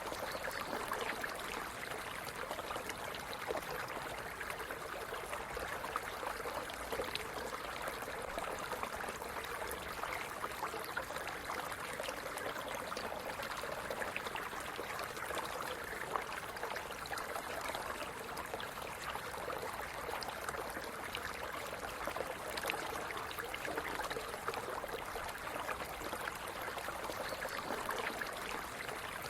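Small stream running steadily, its water trickling and splashing with many little gurgles.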